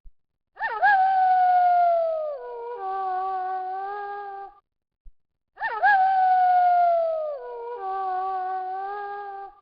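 Wolf howling, twice in identical sequences: each time a howl that swoops up and then slowly falls in pitch, followed by a steadier, lower howl, with a short silence between the two sequences.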